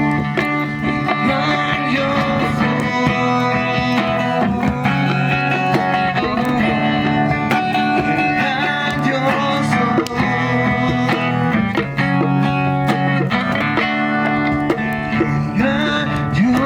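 Music led by guitar, steady and full throughout.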